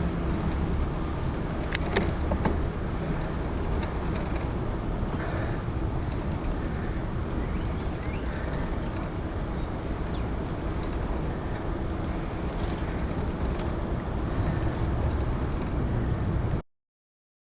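Loud, steady rolling noise of a bicycle's 650b tires on the trail, on a Salsa Journeyman, with a few sharp clicks about two seconds in. The sound cuts off abruptly near the end.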